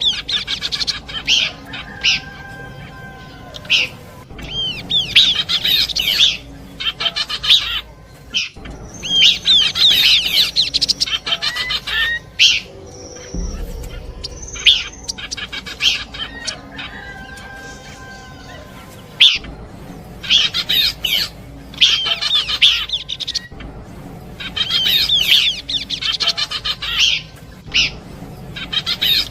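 Recorded song of a Horsfield's babbler (pelanduk semak), played as a bird-trapping lure: bursts of quick chirping and whistled notes every few seconds, with quieter stretches between, the phrases recurring as in a looped track.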